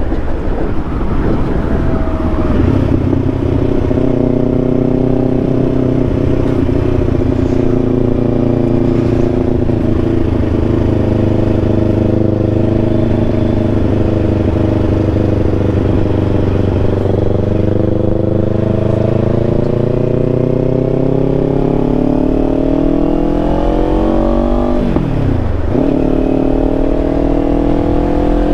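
Kawasaki Ninja 500's parallel-twin engine under way at a steady cruise, then pulling up in pitch as the bike accelerates. About 25 seconds in the pitch drops sharply for an upshift and starts climbing again.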